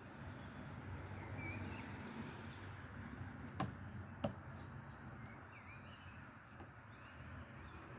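Quiet workshop background with a low steady hum, two light clicks or knocks a little over half a second apart near the middle, and a few faint bird chirps.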